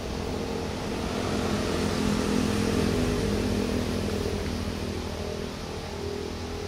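Argo Jati executive passenger train running away from the listener on a curve: a steady mechanical hum over a rushing noise, swelling about two seconds in and then easing off.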